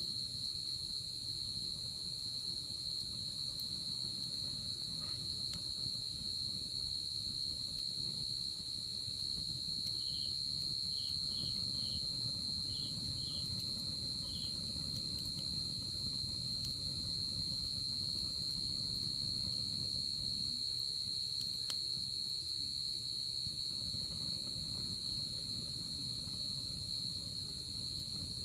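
Night insects, crickets, trilling in one steady high unbroken tone, with a second insect giving a short run of about eight chirps about ten seconds in. A low even hiss lies underneath, with a few faint pops from the campfire.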